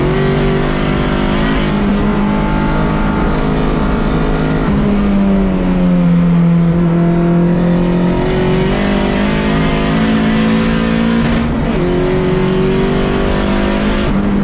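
A car engine running hard at a track day, its note holding for a few seconds at a time and then stepping down or up in pitch as the revs change.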